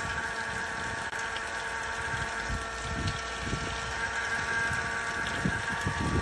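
A small motor running steadily with a high, even whine, over irregular low rumbling from wind on the microphone.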